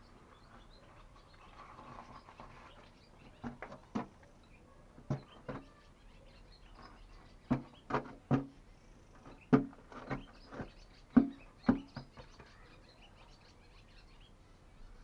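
About a dozen irregular knocks and clatters, the loudest in the middle stretch, with faint background noise between them.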